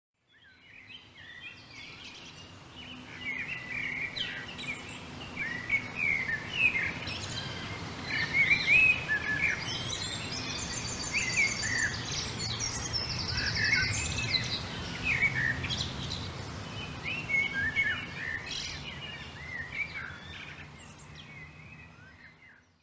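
Birdsong: many chirps and short whistles with a couple of rapid high trills near the middle, over a faint low background. It fades in at the start and fades out near the end.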